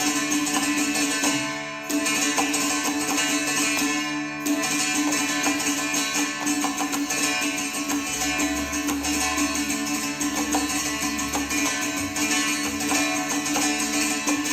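Carnatic music: a plucked string instrument playing over a steady drone.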